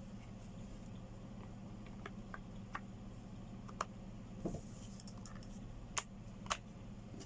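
Scattered light clicks and taps of small parts being handled during the rotary hammer's repair, two sharper ones about six seconds in, over a steady low electrical hum.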